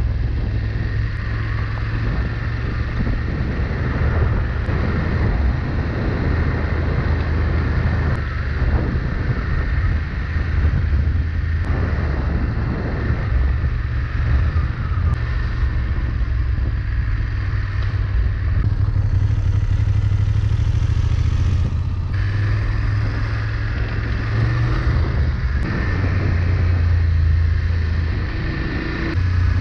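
BMW F 850 GS's parallel-twin engine running as the motorcycle is ridden along a dirt road, its low note stepping up and down a few times with throttle, over a steady rush of road noise.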